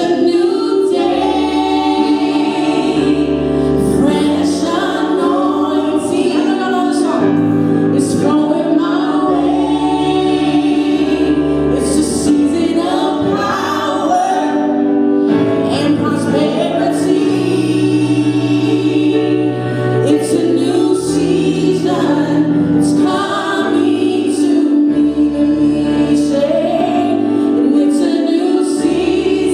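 Church praise and worship team singing a gospel worship song together in harmony, over a held chord and a bass line that changes note every couple of seconds.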